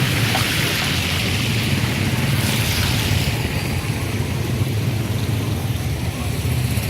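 Heavy rain hissing steadily, with a vehicle engine running underneath; the rain noise swells for a moment about two and a half seconds in.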